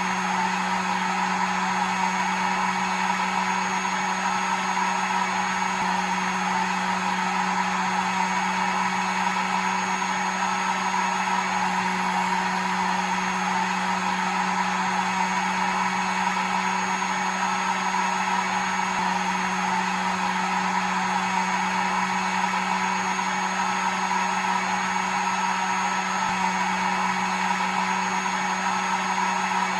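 Hair dryer running steadily: an even rush of air over a constant low motor hum.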